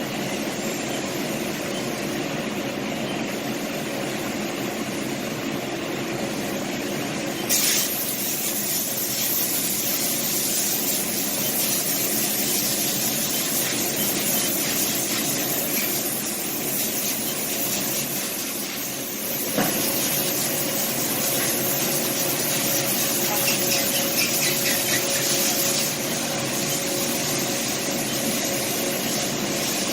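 Haas DT-1 CNC vertical machining center running: a steady mechanical whir. About seven seconds in, a loud hiss starts and continues. About twenty seconds in, the sound shifts and a steady whine comes in.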